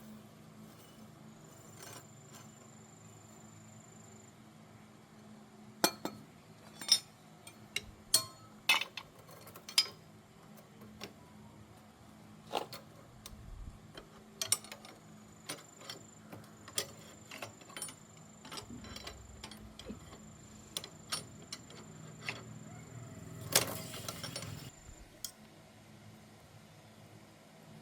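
Metal tools and small metal parts clinking and tapping, a run of sharp clinks about six to ten seconds in, then lighter scattered taps and a brief rustling scrape near the end, over a low steady hum.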